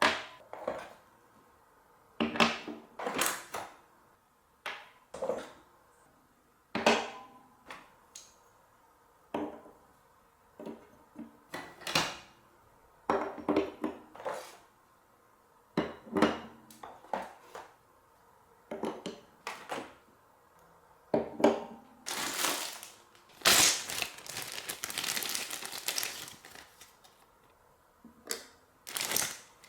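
Marbles running through a block marble run: a string of sharp clicks and clacks as they drop and knock against the blocks. About three quarters of the way through comes a few seconds of continuous rattling as marbles roll along the track.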